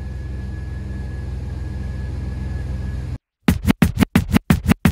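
The 2000 GMC Jimmy's 4.3 L V6 idling steadily, heard from inside the cab, with a faint steady high tone over it. About three seconds in it cuts off abruptly and is replaced by electronic music with rapid, choppy scratching.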